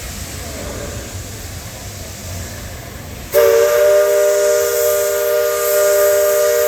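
Vessel's horn sounding one long blast: several steady tones held together with a hiss on top, starting abruptly about three seconds in over a low steady rumble.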